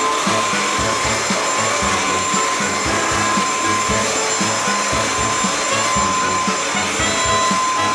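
An acum cordless cyclone stick vacuum cleaner running steadily, with a constant whine over its airflow noise.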